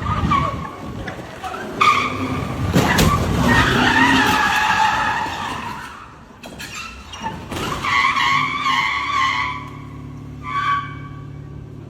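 Car tyres squealing as they skid, in several drawn-out stretches of wavering high squeal, with a couple of sharp knocks during the first long squeal.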